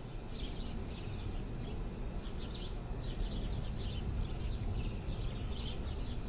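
Birds chirping in quick, repeated short calls over a steady low background rumble.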